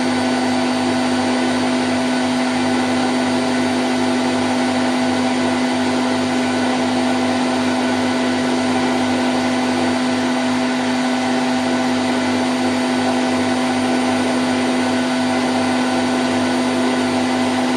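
Candy Grand O' F106 washing machine spinning its drum at 1000 rpm in the spin cycle: a steady, unchanging whir, with one strong hum-like tone over an even hiss.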